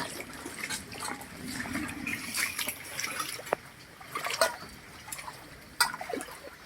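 Rainwater trickling and splashing at a drain as clogged leaves are pulled away, with irregular wet splashes and clicks throughout.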